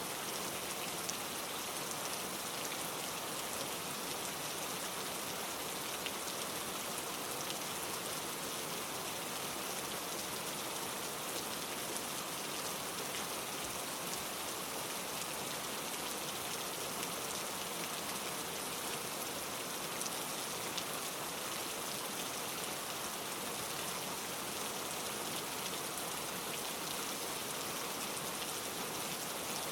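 Steady rain falling: an even, unbroken patter, with now and then a sharper single drop standing out.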